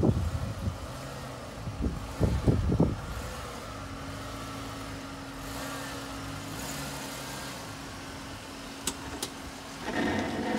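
Car engine running at low speed as the car creeps forward through shallow floodwater, a steady low hum. There are a few brief low bumps about two seconds in and two sharp clicks near the end.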